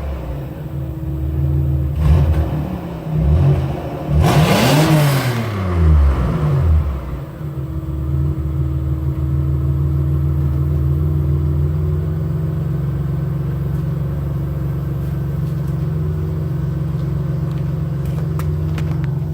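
1994 Oldsmobile Cutlass Supreme's 3.4-litre 24-valve DOHC V6 (LQ1) heard through its rusty factory exhaust, revved several times. The hardest rev, about four to five seconds in, climbs high and falls back, and after that the engine runs at a steady speed.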